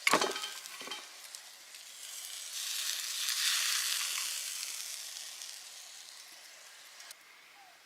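A sharp metallic clank, then steak sizzling over a wood fire: the hiss swells and fades away over a few seconds.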